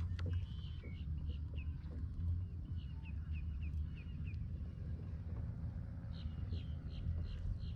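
A bird calling in a quick series of short, falling notes, about three a second, in two runs with a pause of a couple of seconds between them, over a steady low rumble.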